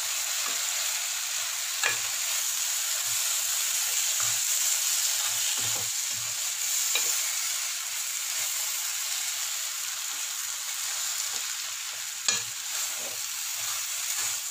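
Grated tapioca and semolina sizzling as they are sautéed in a non-stick pan, the moisture from the tapioca cooking off, while a wooden spatula stirs and scrapes through them. A few sharp knocks of the spatula on the pan, the loudest about twelve seconds in.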